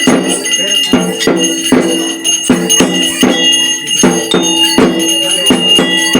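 Devotional percussion music: drum strokes about two to three a second with bells ringing steadily over them.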